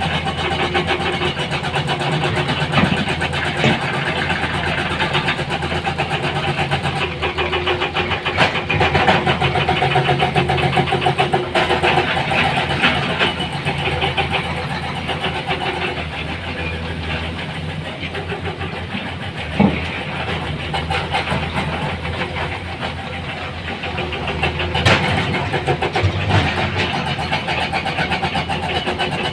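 Heavy diesel machinery engines, excavator and dump truck, running steadily, with two sharp knocks, one near the middle and one near the end.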